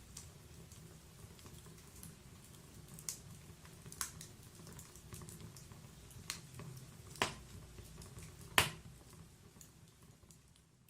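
Wood-burning log fire crackling over a low rumble, with a handful of sharp pops, the loudest about eight and a half seconds in. The sound fades out at the end.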